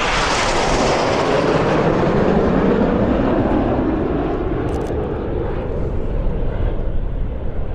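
Military jet flying past: a loud jet roar that drops in pitch over the first few seconds as it passes, then slowly fades.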